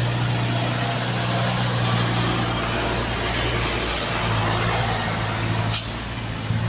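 Hino truck's diesel engine running steadily on a hill climb, with a brief sharp sound about six seconds in.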